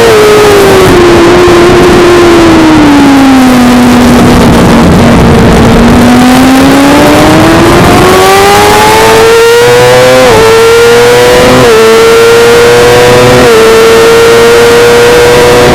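Suzuki GSX-R600 inline-four engine at racing revs. Its pitch falls steadily for several seconds as the bike slows, then climbs again under acceleration. Three quick upshifts come in the second half, each a sudden drop in pitch followed by a fresh climb.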